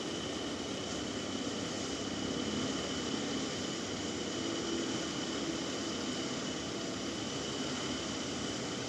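Band sawmill running steadily, a constant mechanical noise with a thin high whine held at one pitch.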